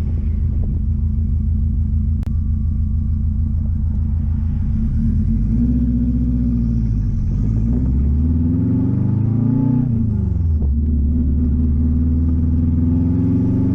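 Turbocharged Subaru flat-four running through an open, catless 3-inch downpipe with no exhaust behind it: a loud, raw exhaust drone while driving. It holds steady, climbs in pitch under revs from about five seconds in, drops sharply near ten seconds, then climbs again near the end.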